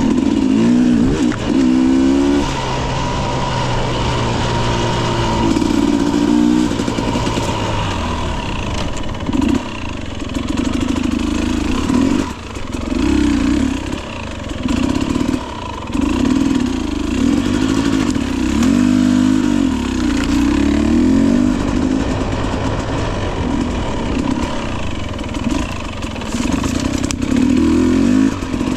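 Single-cylinder two-stroke engine of a Husqvarna TE 250i dirt bike, revving up and down over and over as the bike is ridden, the pitch climbing and dropping every second or two with short breaks when the throttle is rolled off.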